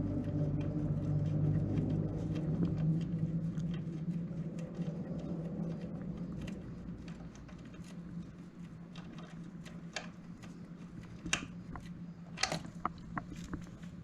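Scattered small clicks and taps of hands-on work, several close together near the end, over a steady low hum that fades through the first half.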